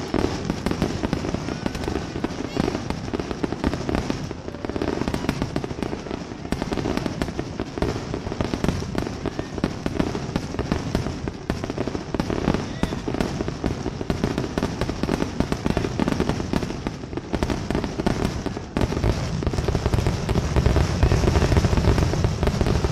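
Fireworks finale: a dense, unbroken barrage of aerial shells bursting and crackling in rapid succession, getting louder and deeper near the end.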